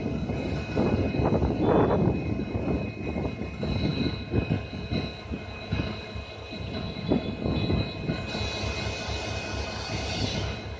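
Diesel locomotive running: a low, uneven rumble with a steady high whine over it, and a rising hiss from about eight seconds in.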